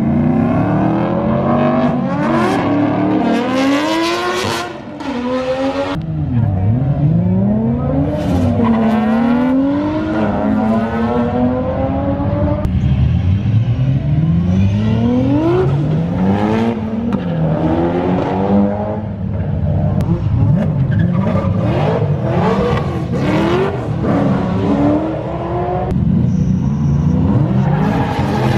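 Drift cars' engines revving hard, their pitch rising and falling again and again, across several clips cut together.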